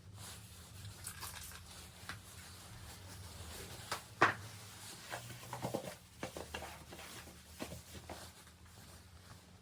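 Rustling and light knocks of blankets being handled in a large plastic litter box, with one sharper knock about four seconds in.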